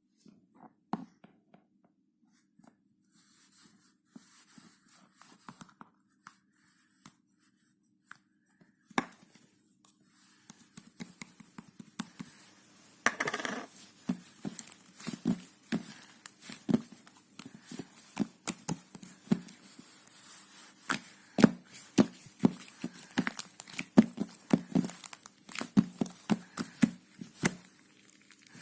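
Close handling noises: rustling and crinkling with many small clicks and knocks, sparse at first and growing busier from about halfway.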